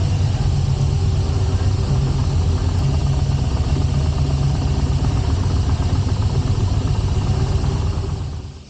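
Yamaha Bolt XVS950's air-cooled V-twin engine running steadily with a low, even rumble and no revving. It fades out sharply near the end.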